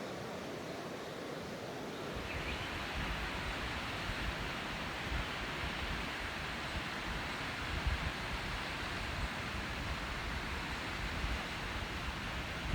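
Steady rushing outdoor noise. About two seconds in it grows louder and fuller, with wind buffeting the microphone as an uneven low rumble.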